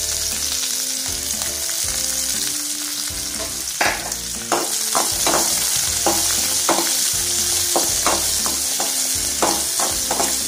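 Chopped onion, garlic and curry leaves sizzling in hot oil in a metal kadai. From about four seconds in, a perforated steel spatula stirs them, with repeated scrapes and taps against the pan.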